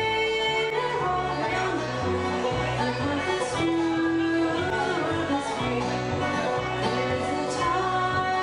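Live acoustic bluegrass combo of fiddle, guitar, banjo or mandolin, harmonica and double bass playing a stretch of a song without words: plucked strings over a steady double-bass beat, with long held melody notes.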